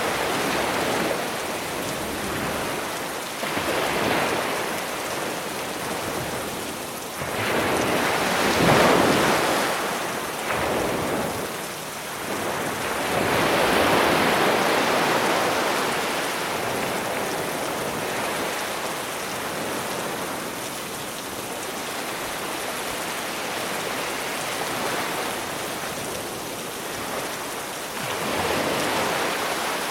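Steady rain mixed with sea waves washing onto the shore. The surf swells and recedes every few seconds, loudest about eight to nine seconds in and again around fourteen seconds.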